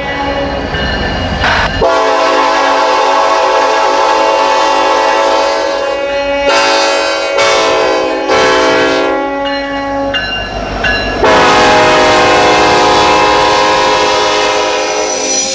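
Locomotive air horn sounding a chord in a series of blasts: two long ones, then three short ones, then another long blast held to the end.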